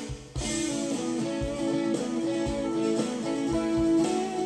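Multitrack recording of a band practice played back for a mixer sound check, vocals muted: guitars over a low, steady beat. The music resumes after a short gap near the start.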